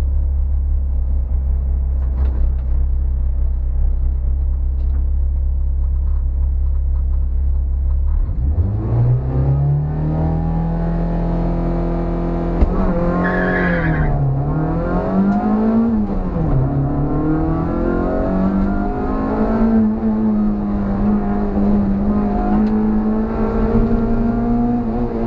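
Suzuki Swift's G13B 1.3-litre four-cylinder engine idling with a steady low hum. About eight seconds in it launches and revs hard, its note climbing, then rising and falling with gear changes and lifts between cones, heard inside the stripped cabin. A brief tyre squeal comes about halfway through.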